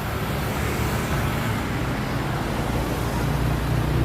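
Road traffic: a motor vehicle engine running steadily, a low hum under continuous road noise.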